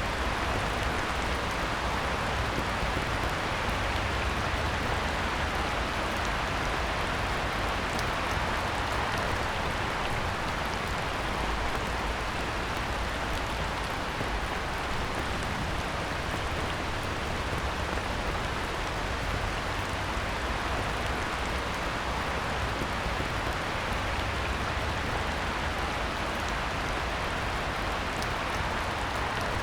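Heavy rain falling steadily on a pond's surface, an even hiss with scattered drop ticks.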